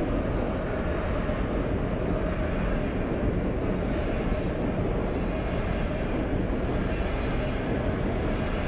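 Swiss SBB double-deck passenger train running past along a station platform: a steady, low rolling noise of its wheels on the rails.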